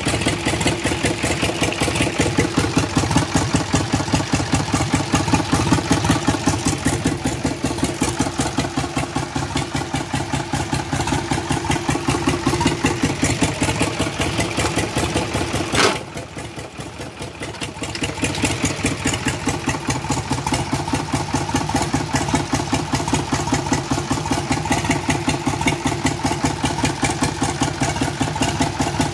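Old three-cylinder diesel tractor engine running at a steady idle, with rapid, even firing pulses. About halfway through there is a sharp click and the sound drops for a couple of seconds, then the engine runs on as before.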